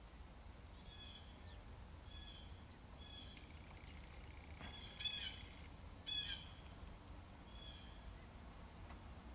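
A bird giving short, high calls about once a second, two of them louder a little past the middle, over a faint steady high-pitched pulsing.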